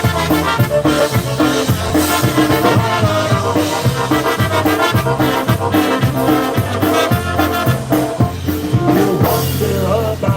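Live polka band playing a song, with a steady beat from the bass and drum kit under the melody instruments.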